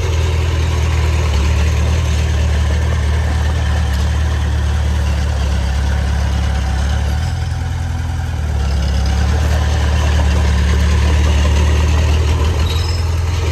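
Heavy earthmoving machine's diesel engine running steadily at a constant speed, with a deep drone. Its pitch shifts down briefly about seven seconds in, then comes back up.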